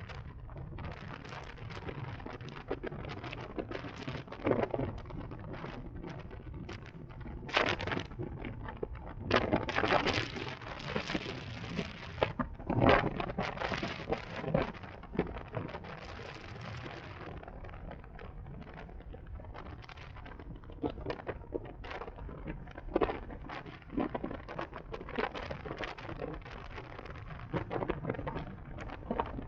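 Wind buffeting the microphone of a moving electric motorcycle, with road noise underneath and no engine sound. It comes in irregular gusts and crackles, loudest in the middle.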